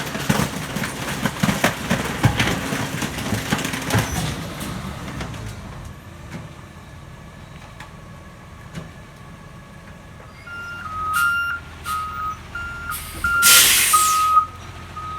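McNeilus rear-loader garbage truck's packer crushing bulky waste, with repeated cracking and snapping over the truck's running engine for the first few seconds, then dying down. From about eleven seconds a reversing alarm beeps at two alternating pitches, with a loud burst of air hiss, typical of air brakes, about a second before the end.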